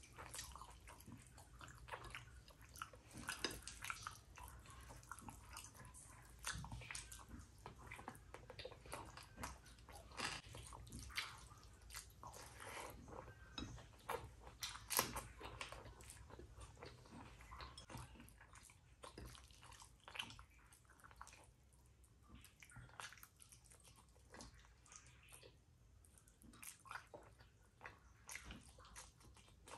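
A person eating rice and curry close to the microphone: wet chewing and lip smacks, with many irregular clicks, a little sparser about two-thirds of the way in.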